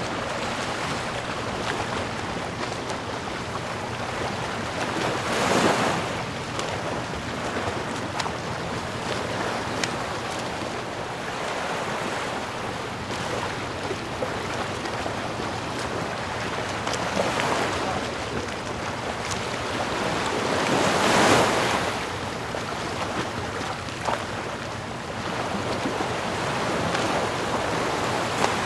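Sea waves washing steadily, with a bigger wave surging in about five and a half seconds in and another, the loudest, around twenty-one seconds in.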